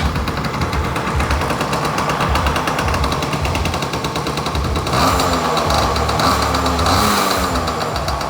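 2000 Yamaha PW80's small two-stroke single-cylinder engine running just after being started, a rapid popping exhaust note, fresh from a top-end rebuild and carb clean. It is revved up about five seconds in and held higher for a couple of seconds before easing back.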